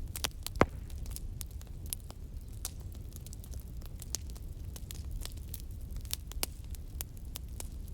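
Wood fire crackling: a steady low rumble of burning with irregular sharp pops and snaps, the loudest pop just after the start.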